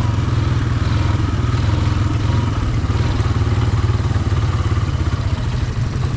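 Off-road vehicle engine running steadily, with a rapid low pulsing of its firing.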